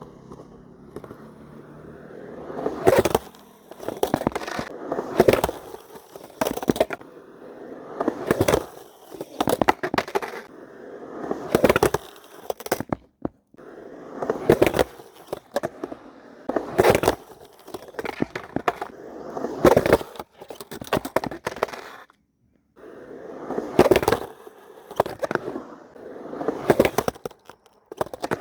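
Skateboard wheels rolling and grinding on concrete, broken by sharp clacks of the board and trucks popping and landing, repeating about every two seconds through several tries. The sound drops out briefly twice.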